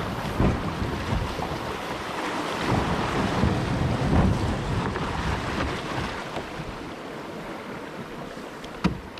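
Wind buffeting the action camera's microphone over moving water, gusty with low rumbling blasts, easing off after about six seconds; a single sharp knock near the end.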